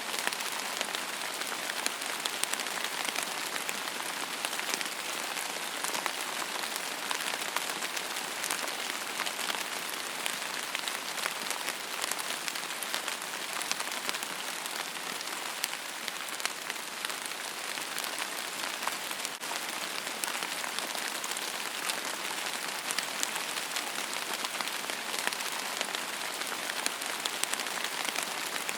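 Steady rain falling on a surface: an even hiss, with many individual drops ticking through it.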